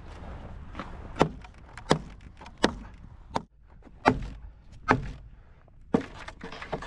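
Hammer striking wood: about six sharp blows, unevenly spaced roughly a second apart.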